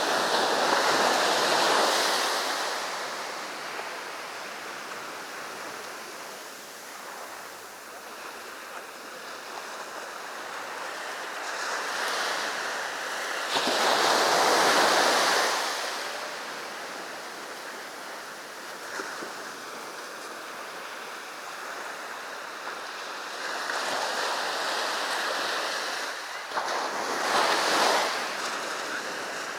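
Sea waves breaking on a sandy shore: three big breakers rise and fall, one at the start, one about halfway and one near the end, with a lower wash of surf between them.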